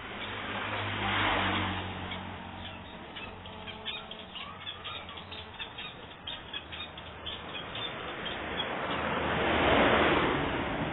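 Two vehicles pass, one about a second in and a louder one near the end. Between them a long-tailed shrike calls in a quick run of short, sharp notes.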